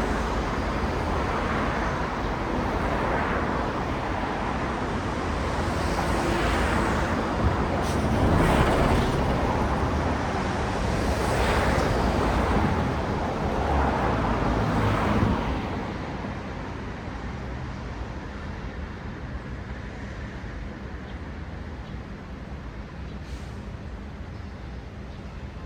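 Road traffic: cars passing one after another, each swelling and fading as its tyres go by. After about fifteen seconds the passing stops and only a quieter, steady traffic hum remains.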